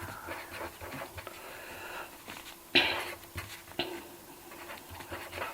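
Cash register being operated: scattered clicks and taps, with one louder clack about three seconds in and a smaller one a second later.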